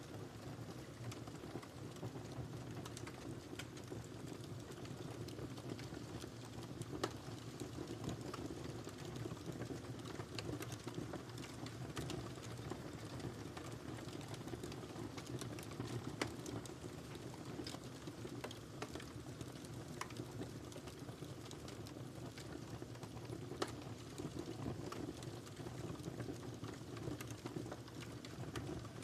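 Wood fire crackling steadily in a fireplace: a low, even rush of flame with many small ticks and a few sharper pops.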